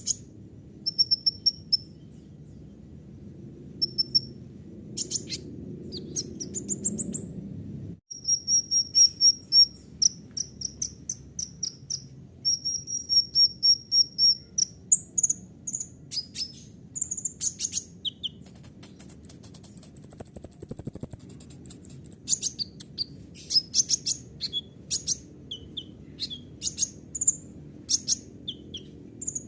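Kolibri ninja sunbird singing a fast, varied song of sharp high chirps, quick runs of repeated notes and trills, its song stuffed with imitations of other birds. The loudest part is a buzzy trill about two-thirds of the way through. A faint steady low hum lies underneath.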